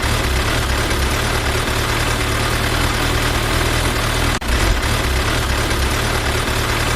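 A vehicle engine idling, a steady low throb with hiss, broken by a short dropout about four seconds in.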